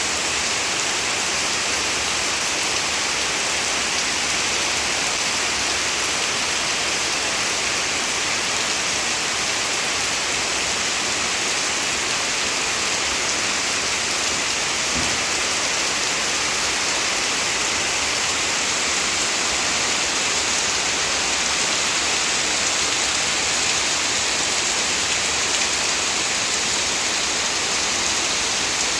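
Heavy rain pouring steadily, a dense even hiss of rain falling on surfaces.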